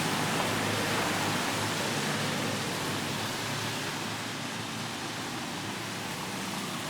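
Ambience recording: a steady, even rushing noise with a faint low hum underneath, no distinct events.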